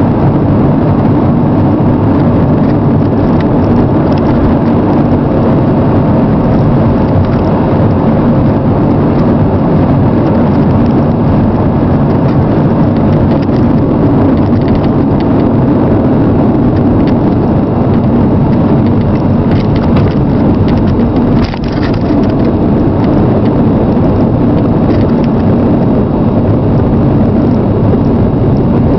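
Chrysler Sebring sedan driving: a steady, loud mix of road and engine noise.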